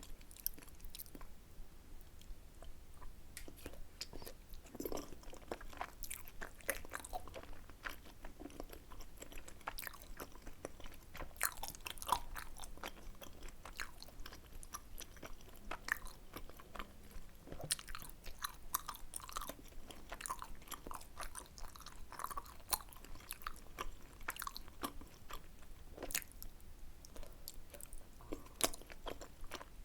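Close-miked chewing and biting of tteokbokki, with frequent sharp wet clicks and smacks of the mouth and an occasional crunch.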